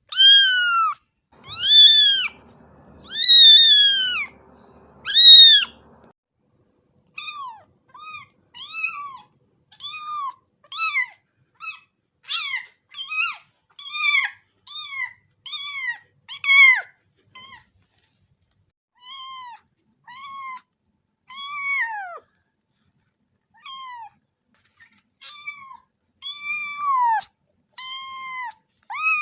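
A cat meowing over and over in high-pitched, arching calls. Four loud, drawn-out meows come in the first six seconds, then a long run of shorter, softer meows, more than one a second.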